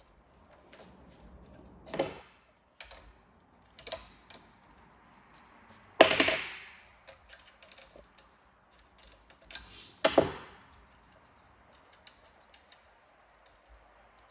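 Irregular clicks and knocks of hard parts being handled during repair work, with four louder clanks that ring briefly, about 2, 4, 6 and 10 seconds in.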